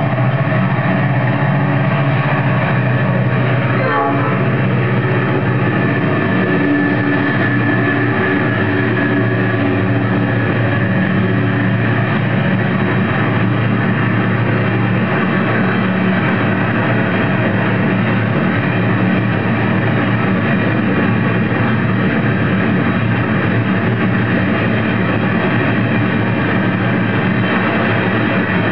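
Pacific National ore train's diesel-electric locomotives passing under power, followed by a long rake of empty ore wagons rolling by with a steady, continuous rumble.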